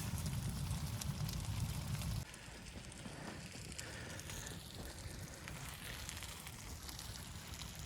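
Wood fire crackling with scattered sharp pops over a steady hiss. A low rumble runs underneath at first and stops abruptly about two seconds in.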